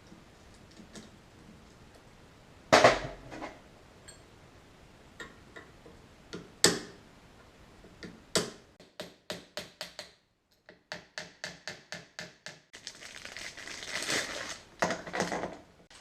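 Metal car parts and hand tools being handled on a workbench: sharp clanks and knocks, the loudest about three seconds in. Then a quick run of clicks, about four a second, and a few seconds of scraping and rustling near the end.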